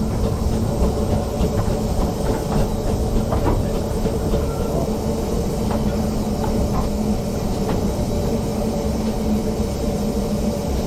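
Narrow gauge steam-hauled train running along the track: a steady low rumble and hum with scattered clicks from the wheels on the rails.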